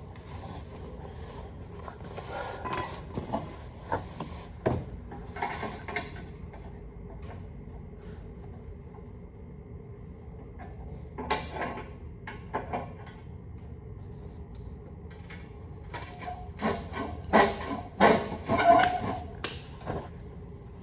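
Scattered knocks, clinks and scraping of parts and hand tools being handled while a part is taken off. The clatter is busiest near the end.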